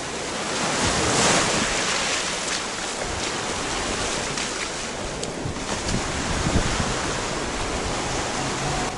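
Sea surf washing onto a beach, a wave swelling loudest about a second in, with wind buffeting the microphone.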